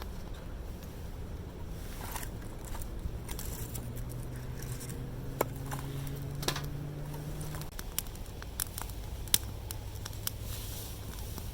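Scattered sharp clicks and light scraping, over a low steady hum that rises slightly in pitch and cuts off abruptly about eight seconds in.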